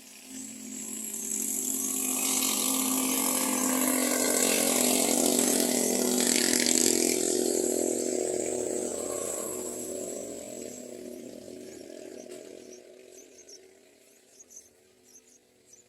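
A small engine running steadily. It grows louder over the first couple of seconds, is loudest in the middle and fades out by about 13 seconds in.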